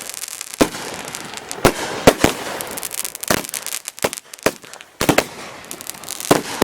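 Consumer multi-shot fireworks packs (cakes) firing. About ten sharp bangs come at irregular spacing, some in quick pairs, with a crackling hiss between them.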